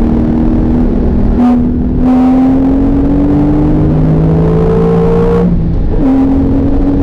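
Porsche 911 GTS twin-turbo flat-six engine pulling hard under acceleration, its note climbing steadily, interrupted by two brief gear changes, about a second and a half in and again near six seconds.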